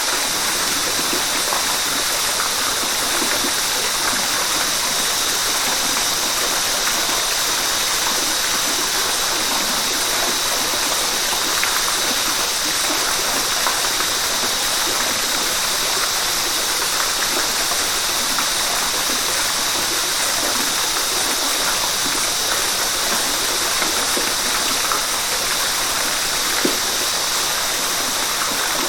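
River water rushing steadily: an even, unbroken rush with no separate splashes or events.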